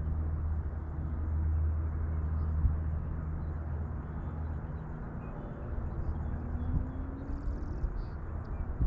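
A low engine hum, steady at first, fading out about three seconds in, over outdoor background noise with small scattered clicks.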